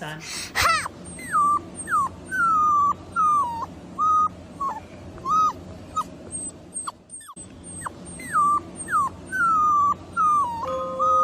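Puppy whimpering: a long run of short, high whines, each dropping in pitch, with a brief break about seven seconds in.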